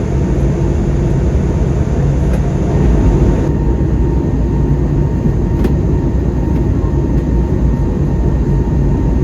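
Airbus A320neo cabin noise in flight: a steady rumble of the jet engines and airflow, with a faint steady whine.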